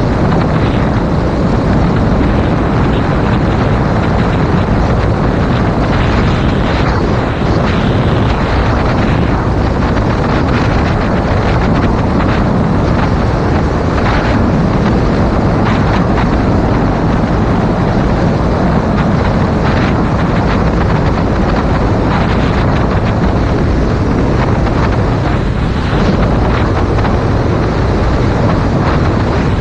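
Loud, steady wind roar buffeting a GoPro Hero 5 Black's microphone on a moving motorcycle, a 2019 Yamaha MT-07, covering the bike's own sound.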